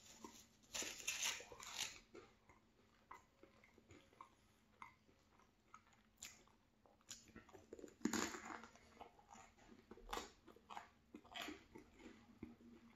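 Close-up mouth sounds of a person biting into and chewing a cheese bagel: irregular bouts of chewing, loudest a second or two in and again about eight seconds in.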